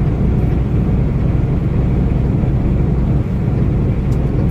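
Semi-truck running with a steady low drone of engine and road noise.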